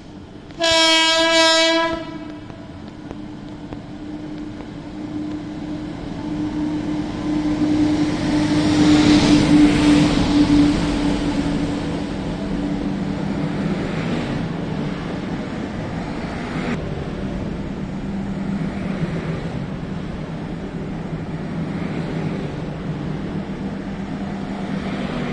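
A train horn sounds one loud blast of just over a second. Then the 22691 Rajdhani Express passes: its running noise builds to a peak about ten seconds in and carries on steadily with a low hum.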